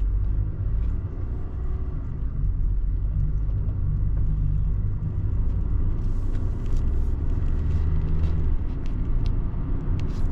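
Motor vehicle running with a steady low rumble of engine and road noise.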